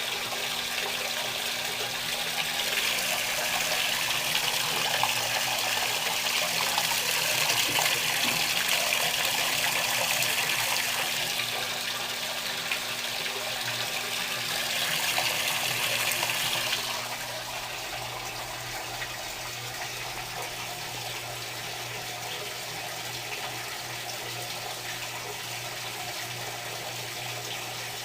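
Electrolux LTR10 top-loading washing machine running water during its rinse stage: a steady rush of water over a low electric hum, which drops to a quieter level about 17 seconds in.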